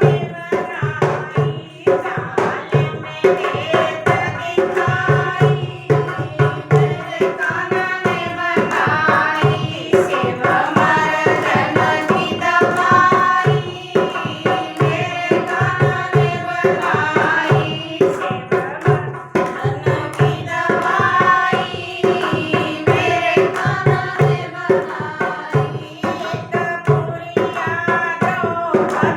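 Hindi devotional bhajan: a woman singing over a steady, rhythmic hand-drum beat.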